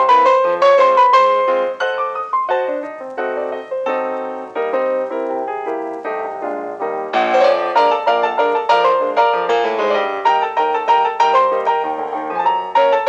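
Solo piano music, a brisk silent-film style accompaniment of quick repeated notes, growing busier and louder about seven seconds in.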